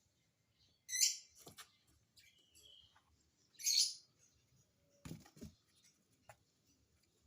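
Lovebird giving short, shrill chirping calls: two loud ones about a second in and near the middle, with fainter chirps between. A pair of low thumps follows about five seconds in.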